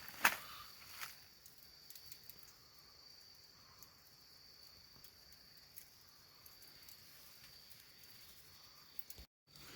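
Faint outdoor night ambience: a steady, high insect trill, such as crickets, with scattered small clicks and crackles. The loudest is a sharp click about a quarter second in.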